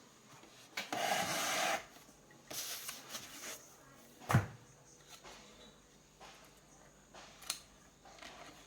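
Handling noises: two rubbing or scraping sounds of about a second each, then a sharp knock about four seconds in and a small click near the end.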